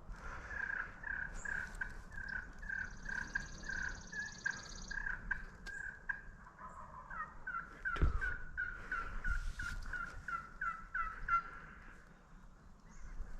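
Turkey yelping: two long runs of evenly spaced short notes, about two a second, the second run a little faster. A single dull thump comes about eight seconds in.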